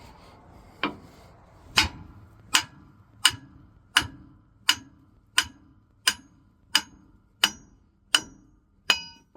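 Hammer blows knocking the yoke off a combine's steering assembly: twelve sharp metallic strikes at an even pace of about one and a half a second, the later ones ringing. The yoke is held on by dowels and takes more effort than expected to come free.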